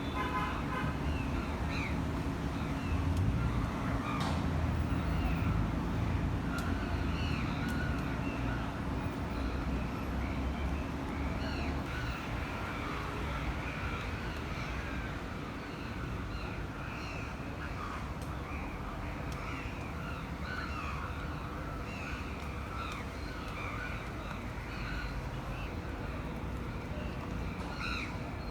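Many birds calling and chattering over a low rumble of street traffic. The traffic is louder in the first half and eases off later.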